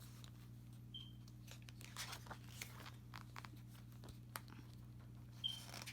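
Faint paper rustling and light taps from handling photobook pages in a small room, with two brief high chirps about a second in and near the end.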